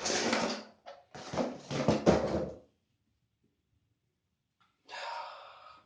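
Packaging being torn open and handled by hand: two stretches of rough tearing and rustling, then after a break another rustle near the end.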